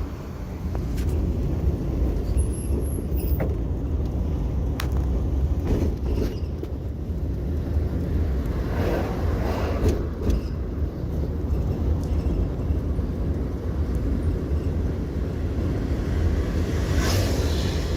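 Steady low rumble of wind on the microphone and road traffic, with a couple of louder swells, about nine and seventeen seconds in.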